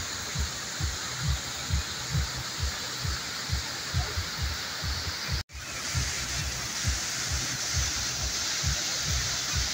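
Waterfall rushing steadily, with low thumps repeating evenly about twice a second underneath. The sound cuts out for an instant about halfway through.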